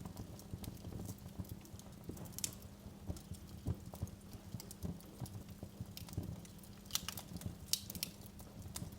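Wood fire crackling in a fireplace: irregular sharp pops and snaps over a low rumble of the flames, with a cluster of louder pops about seven to eight seconds in.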